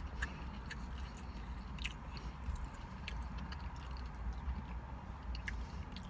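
A person chewing a mouthful of cheeseburger slider, with scattered short wet clicks from the mouth over a steady low rumble.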